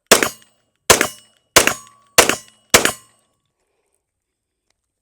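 Walther PDP 9mm pistol fired five times in quick succession, roughly one shot every two-thirds of a second, each shot followed by a brief ring.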